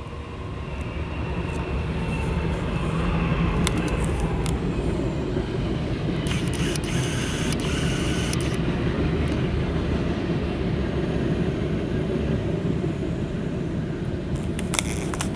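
A train rolling past with a steady heavy rumble that builds over the first few seconds. A high metallic screech rises above it for a couple of seconds in the middle, and there are a few sharp clicks.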